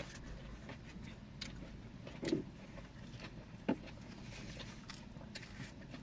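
Faint mouth sounds of people eating Philly cheesesteak sandwiches: scattered small clicks and smacks of chewing, with two brief louder ones a little over two seconds in and again more than halfway through.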